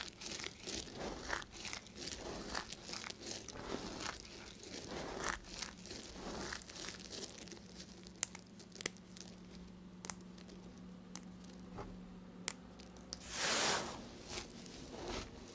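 A knife cutting through dry soap: a run of short, crunchy scrapes and sharp clicks, with one longer, louder scrape near the end.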